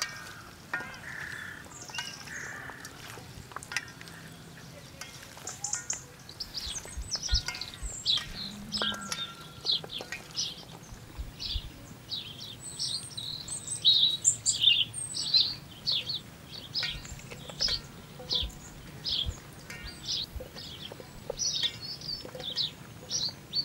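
Wild songbirds chirping, a quick run of short high notes that grows busy from about six seconds in.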